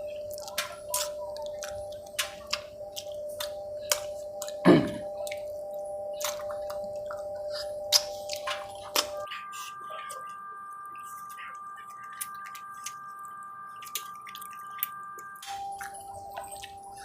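Close-miked eating sounds: wet mouth clicks and lip smacks of chewing, irregular and scattered, with one louder smack about five seconds in. A faint steady hum runs behind them.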